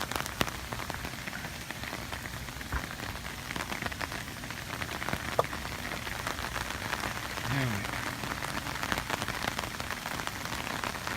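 Hurricane rain falling steadily, an even wash of noise made of many small drop hits, with one sharp click about five seconds in.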